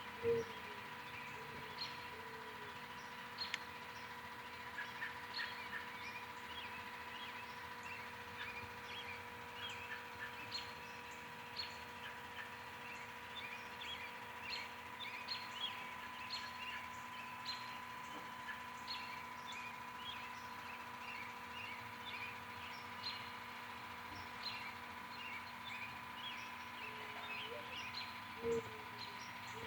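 Evening bird chorus: many songbirds chirping and twittering without pause, with a dove cooing low at the start and again near the end, over a steady faint hum.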